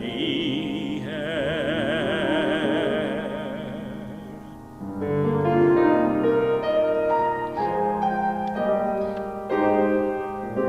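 A solo singer holds a long vibrato note on the end of a sung carol line, with piano accompaniment. The voice stops about four and a half seconds in, and the piano plays an interlude of chords on its own.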